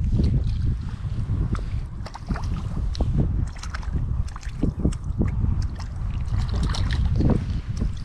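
Wind buffeting the microphone in a heavy, gusting low rumble, with scattered small clicks and knocks throughout.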